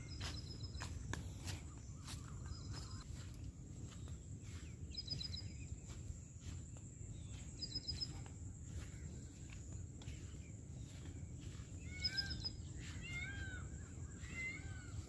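Small birds calling: short high trills every few seconds, then a quick run of chirping calls over the last few seconds. These sound over a steady low rumble.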